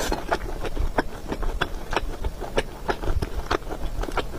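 Close-miked eating: a person chewing food, with irregular wet mouth clicks several times a second.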